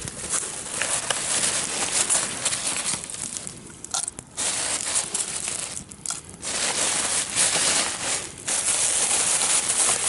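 Campfire crackling and rustling, a dense stream of small snaps with a few brief lulls.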